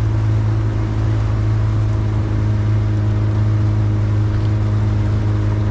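Boat engine running steadily at constant speed, with an even, low-pitched hum that does not change.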